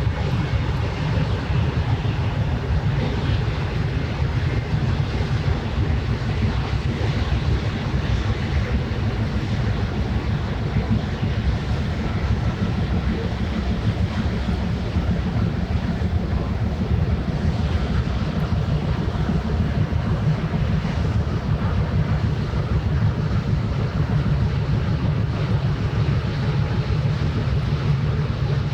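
Steady low rumble of a passing ship's engine mixed with wind buffeting the microphone and water noise.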